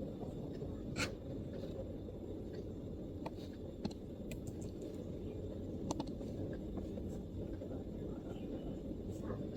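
Scattered, irregular MacBook keyboard keystrokes: a handful of separate clicks with pauses between them. They sit over a steady low background rumble.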